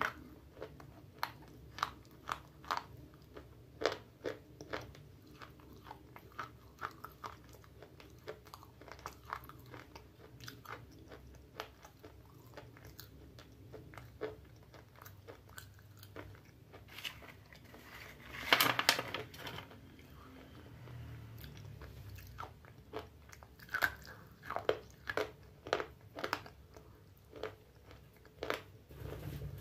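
A person chewing a mouthful of hard, chalky pieces: a string of sharp, crisp crunches at an uneven pace, with a louder burst of crunching a little past the middle.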